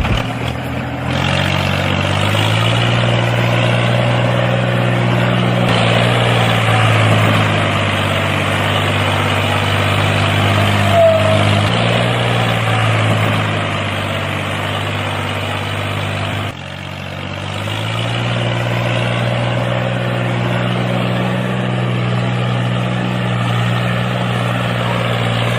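Engine running at a steady speed. About two-thirds of the way through the level drops suddenly, then builds back up to the same steady running.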